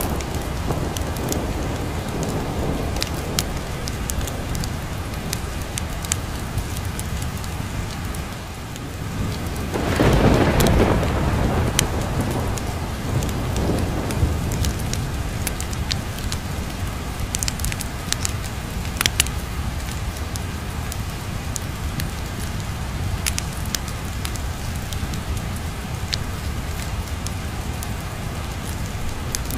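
Steady rain with a low rumble of thunder swelling about ten seconds in, and scattered sharp ticks throughout.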